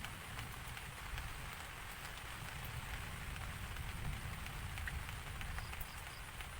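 Steady rain falling, with many small drop impacts ticking over an even hiss and a low rumble.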